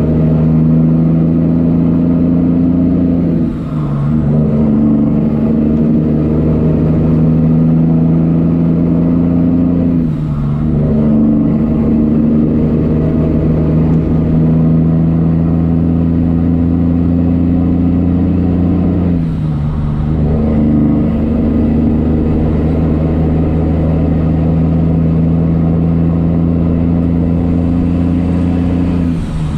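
Semi-truck diesel engine pulling steadily under load, with a brief drop in engine sound at each of four gear changes several seconds apart.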